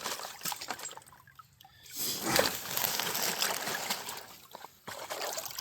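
Creek water splashing and trickling as a sifting screen is worked in the shallow water, quiet for a moment, then louder splashing from about two seconds in that dies down near the end.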